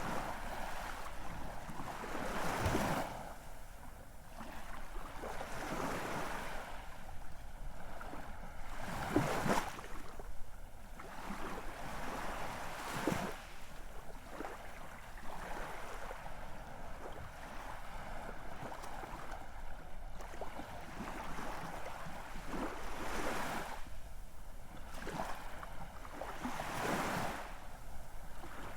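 Ocean waves breaking and washing ashore: a steady rush of surf, rising in a louder surge every few seconds as each wave comes in.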